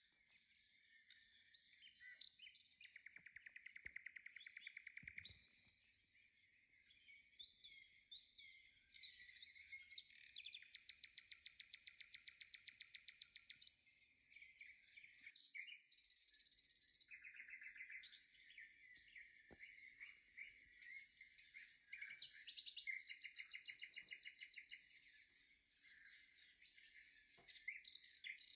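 Faint birdsong: several birds chirping steadily, broken a few times by fast trills of rapidly repeated notes.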